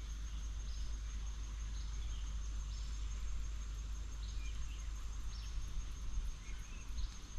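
Outdoor ambience: a steady high-pitched insect drone with short bird chirps every second or so, over a low rumble.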